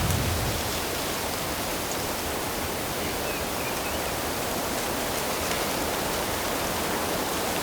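Steady, even rush of water noise, as from a stream, waterfall or steady rain.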